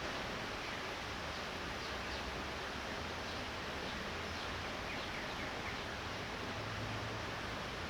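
Light rain falling steadily, an even hiss with no breaks.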